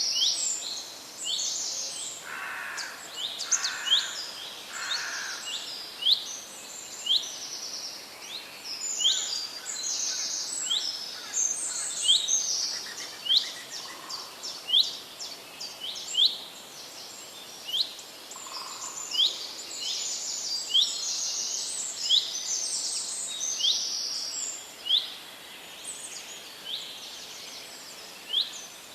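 Several songbirds chirping and singing in a dense chorus: quick rising chirps repeat about once a second over busier high twittering. Three lower notes come about two to five seconds in.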